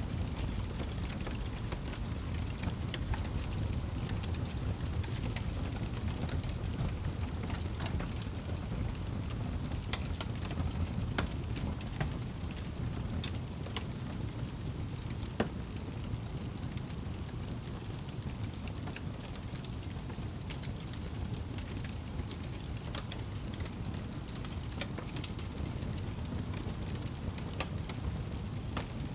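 Wood fire crackling in a fireplace: a steady low rush of burning with scattered sharp pops and crackles, one louder pop about halfway through.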